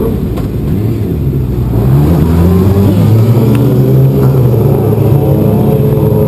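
Several racing motorcycles accelerating hard, with many engine notes overlapping and rising and falling in pitch through the gear changes. It gets louder about two seconds in as the pack comes closer.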